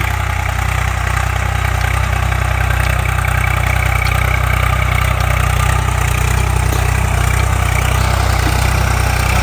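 Swaraj 744 FE tractor's three-cylinder diesel engine running steadily at an even, unchanging speed.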